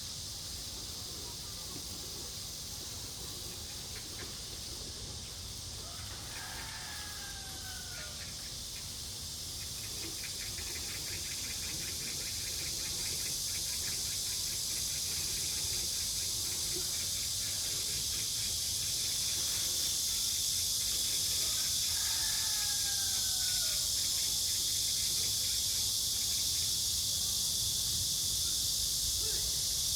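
Outdoor insect chorus, a steady high-pitched buzzing that grows gradually louder, with two short falling squeal-like calls, one several seconds in and another about two-thirds of the way through.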